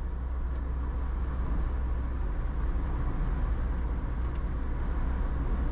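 Road noise inside a moving vehicle: a steady low drone with an even hiss of tyres and wind.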